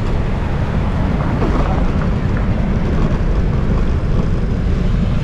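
Steady wind rushing over the microphone of a moving bicycle, with road traffic running underneath.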